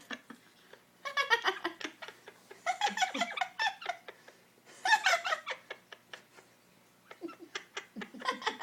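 Pet talking bird chattering in four short bursts of quiet, mumbled mimicry, like whispering, with squeaky giggle-like notes.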